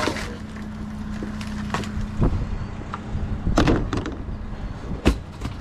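A vehicle engine idling steadily, with several sharp knocks and clunks of objects being handled: one about two seconds in, a pair near the middle, and the loudest about five seconds in.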